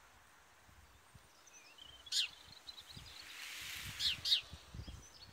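Outdoor ambience with a few short, sharp bird calls that sweep down in pitch: one about two seconds in and two close together about four seconds in. Under them a faint hiss swells and fades in the middle, and a few low thumps come near the end.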